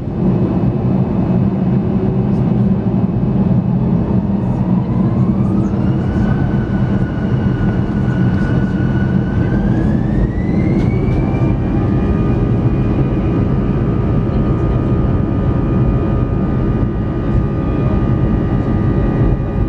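Airbus A320 jet engines spooling up for take-off, heard inside the cabin: a steady loud rumble with a whine that rises about four seconds in, holds, then rises again about ten seconds in to take-off thrust and stays high.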